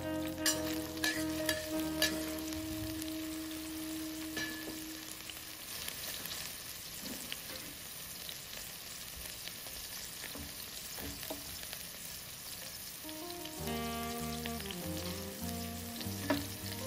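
Chopped chili, garlic and scallion sizzling in hot oil in a wok with a dash of dark rice vinegar, with a few light clicks in the first couple of seconds as they are stirred. Background music plays over the sizzle for the first few seconds and again near the end.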